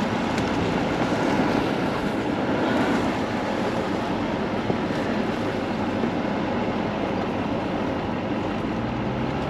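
Four-wheel drive towing a caravan driving along a narrow dirt track: a steady rumble of engine and tyres.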